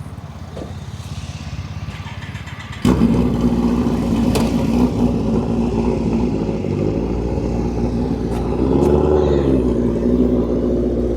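V8 engine with a lumpy, pulsing idle that suddenly gets much louder and higher about three seconds in, then runs steadily with small rises and falls in pitch.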